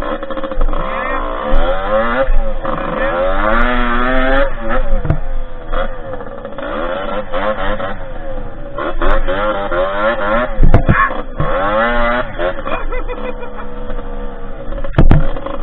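Derbi 50cc two-stroke engine in a dirt bike running under riding load, its pitch rising and falling as the throttle is opened and closed. A couple of sharp knocks stand out, about eleven and fifteen seconds in.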